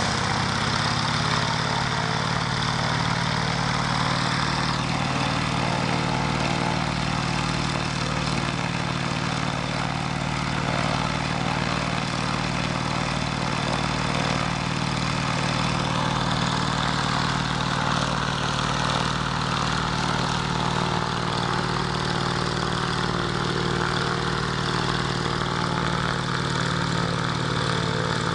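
Alvis Leonides radial piston engine of a Scottish Aviation Twin Pioneer running steadily at low power, its propeller turning. The pitch settles at the very start, then holds even.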